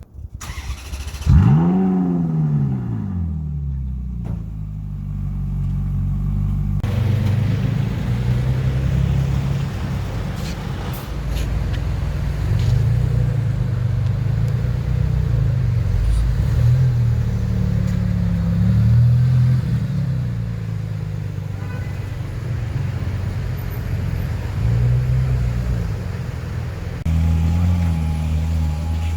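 A supercar's engine starting: it catches about a second in with a sharp rev flare that falls back over a few seconds to a low idle. The engine then runs at low revs, its pitch rising and falling gently.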